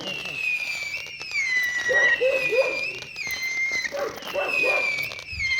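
A whistling firework giving a long, steady, high-pitched whistle that dips slightly in pitch about once a second. A lower wavering, howl-like sound comes and goes beneath it.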